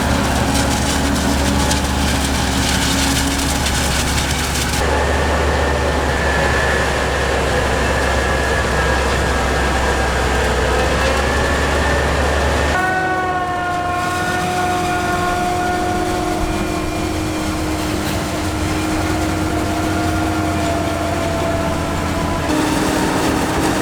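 Heavy farm machinery running steadily, with a low hum and held whining tones. The sound changes abruptly three times as the shots change.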